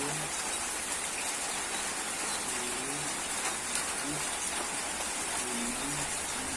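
Steady rain falling, a constant hiss of drops, with a few short, low bird calls sounding now and then through it.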